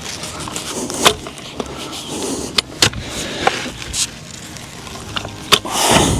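Manual post hole digger blades working in wet, sticky clay and gravel: a scraping noise with several sharp knocks and clanks spread through it, and a louder scrape near the end.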